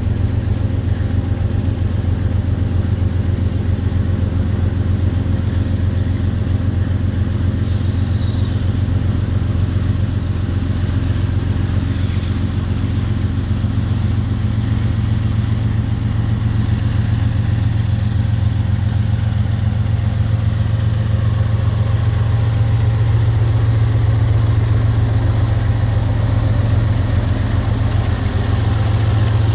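Diesel freight locomotives running with a steady low engine drone.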